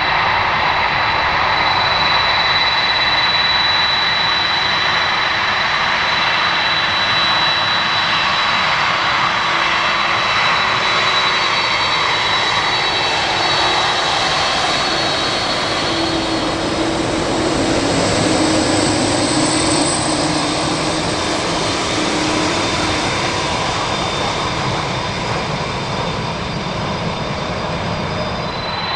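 Jet airliner engines running: a loud, steady rush with a thin high whine on top.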